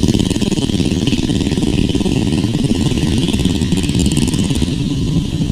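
Mini bike engines running steadily.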